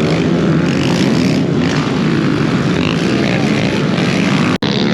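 Pit bike engines running hard on the track, a steady buzzing drone. The sound cuts out for an instant near the end.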